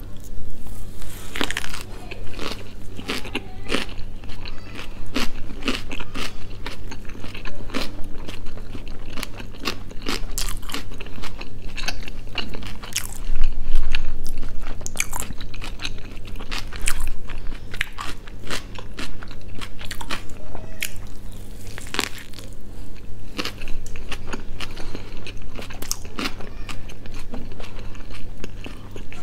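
Close-miked eating of a burger: soft bites and crunching with wet chewing and mouth clicks, with a louder bite about halfway through.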